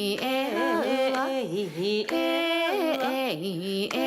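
A voice singing a slow melody, mostly unaccompanied, with long held notes joined by sliding, ornamented turns of pitch.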